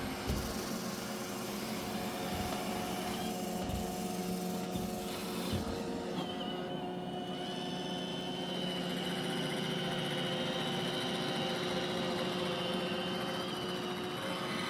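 Roomba i7+ robot vacuum running, its motors giving a steady hum with a few fixed whining tones. There are a few soft low thumps in the first six seconds.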